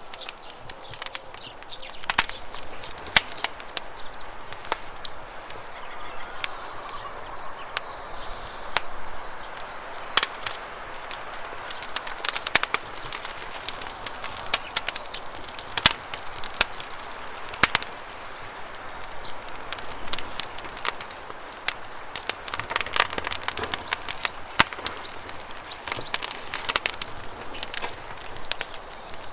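Campfire crackling with frequent sharp pops over the steady rush of running river water. A faint bird call, a quick series of high notes, comes in for a few seconds about six seconds in and again briefly a little later.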